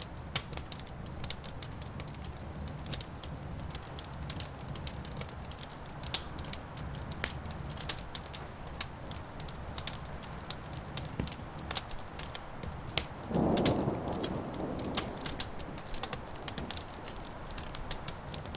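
Wood fire crackling, with many sharp pops over a steady low rumble. About thirteen seconds in, a louder rumble of thunder swells for a couple of seconds.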